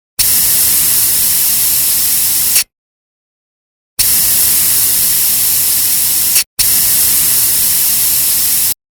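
Compressed air blown through a water chiller's dust gauze to clear it: three bursts of loud, even hissing, each about two and a half seconds long and stopping abruptly. The second and third bursts are separated by only a brief break.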